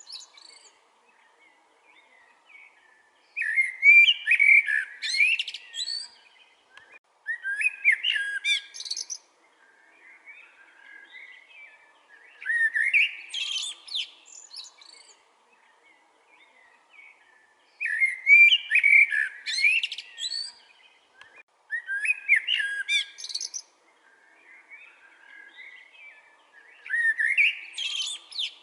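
Eurasian blackbird singing: six fluting song phrases of about two seconds each, each ending in a high twitter, with pauses of a few seconds between them.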